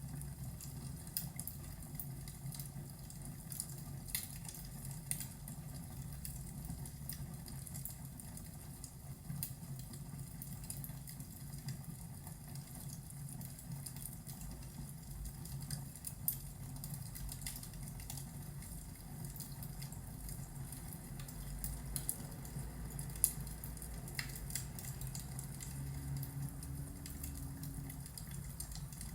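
Fireplace ambience: a wood fire crackling, with scattered sharp pops over a steady low rumble.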